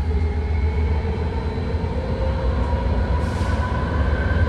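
BART train heard from inside a car as it pulls away from a station: a steady low rumble of wheels and running gear, with a faint motor whine slowly rising in pitch as the train picks up speed.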